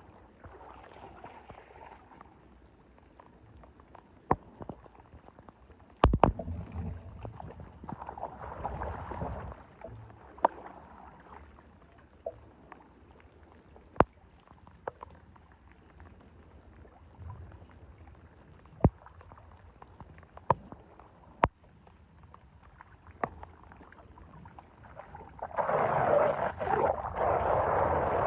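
Water sloshing and splashing with scattered sharp knocks and a heavier thump about six seconds in, typical of debris being worked loose from a clogged drain. Much louder splashing and rushing water begins near the end.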